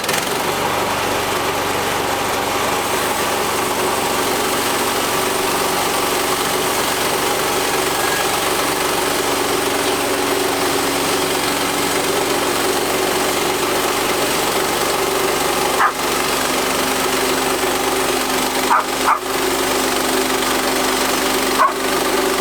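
Frontier portable bandsaw mill running steadily under load as a brand-new blade cuts through a black walnut log. A few brief squeaks come in the last third.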